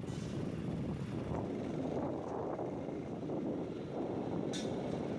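Steady rumble of a motorbike riding along a road, with wind noise on the microphone and a brief hiss about four and a half seconds in.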